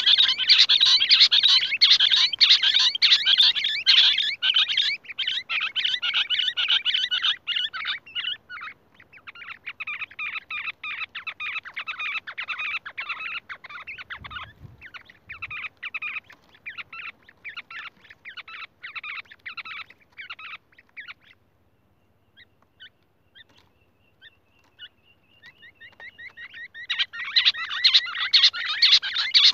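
Rapid, dense chattering calls of the game bird known locally as the 'Lahori', a quail or partridge kind. The calls are loud at first and ease off a little after about eight seconds. They break into a few scattered short notes for several seconds and then resume loudly near the end.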